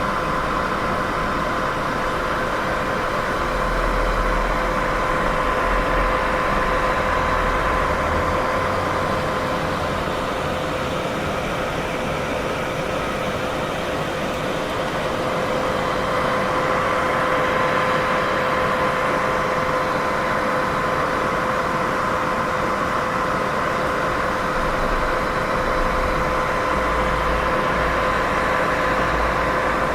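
Steady white noise for sleep: an even, unbroken hiss with a faint steady tone running through it, swelling and easing slightly in level.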